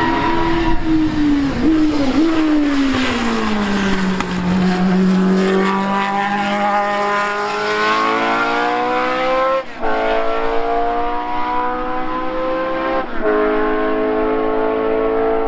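Racing car engine at high revs. The note drops over the first few seconds as the car slows, then climbs steadily under acceleration, with quick gear upshifts about ten and thirteen seconds in.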